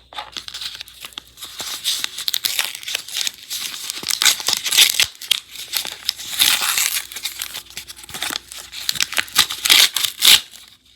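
A homemade blind bag being torn open and crinkled by hand, in irregular rustling and tearing bursts.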